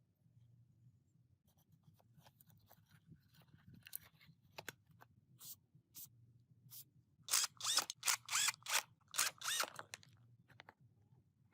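Scattered light clicks and scrapes, then a quick run of about a dozen loud scraping strokes with faint squeaks in them, like hand-tool work on a part.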